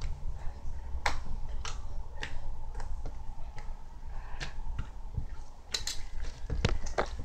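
Slime being squeezed and worked by hand, making irregular sticky clicks and pops, several in quick succession near the end.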